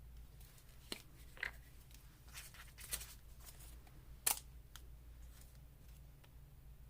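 Paper ephemera being handled and laid down on a page: scattered soft rustles and light taps, the sharpest about four seconds in.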